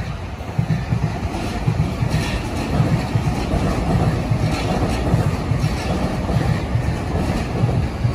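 Low, uneven rumble at a railway platform beside a standing JR East E233-series electric commuter train, with faint hiss above it.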